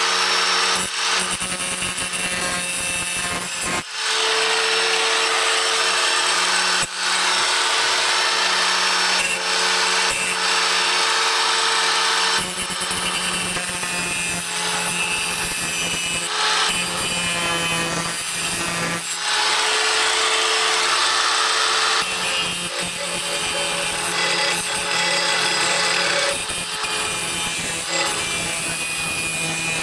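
Electric angle grinder running steadily with its disc against the edge of a steel SCAG mower blade, sharpening it. The sound is loud and continuous, dipping briefly a few times.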